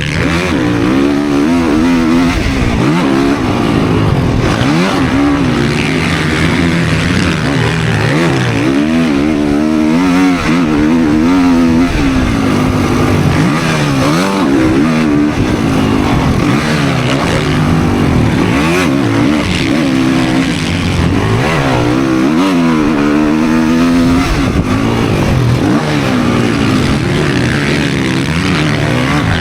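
Motocross dirt bike engine revving hard and continuously, its pitch rising and falling over and over as the bike is ridden and shifted.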